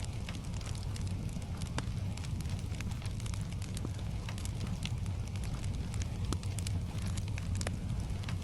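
Wood fire crackling, with sharp pops at irregular intervals over a steady low rumble and a fainter hiss of rain.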